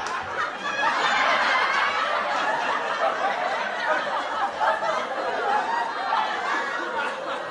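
Canned audience laughter: a crowd of many voices laughing and chuckling together, easing off slightly in the last couple of seconds.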